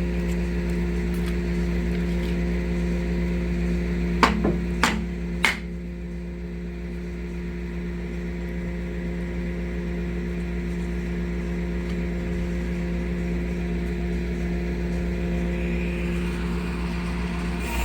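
Flatbed tow truck's engine running steadily, with three sharp metallic clanks in quick succession about four to five and a half seconds in.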